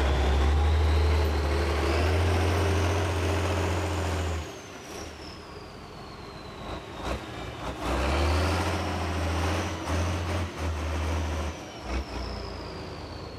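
Heavy truck engine running hard, deep and steady, with a faint high whine rising and falling above it. It drops away about four seconds in and comes back about eight seconds in.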